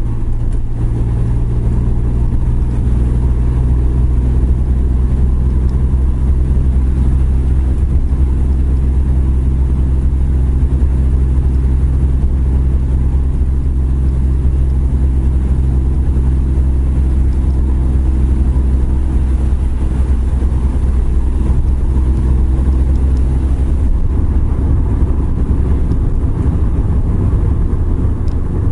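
Suzuki Every Wagon kei van's small three-cylinder engine droning steadily while driving, with road noise. About 24 seconds in, the steady drone breaks up and turns rougher and noisier.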